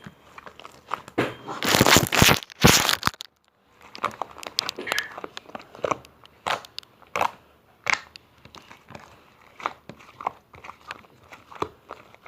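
Crinkling and tearing, loudest about two seconds in, followed by a run of short, sharp crunches and clicks.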